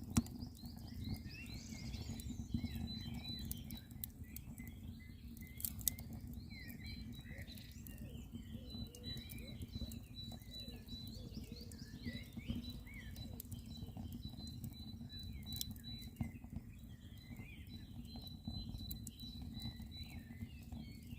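Campfire crackling with a few sharp pops, while several birds sing and chirp throughout. A thin, steady high note runs through much of it.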